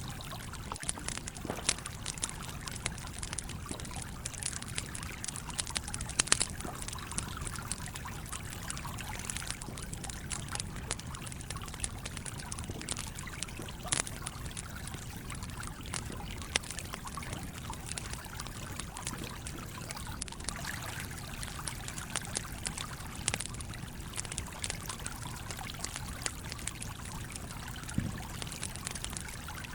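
Wood campfire crackling with scattered sharp pops, over the steady rushing flow of a small stream.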